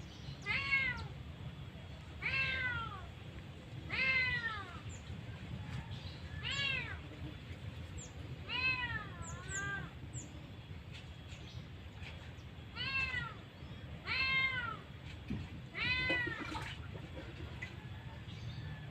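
An animal giving repeated mewing calls, about a dozen separate notes, each rising then falling, one every second or two. A steady low rumble runs underneath.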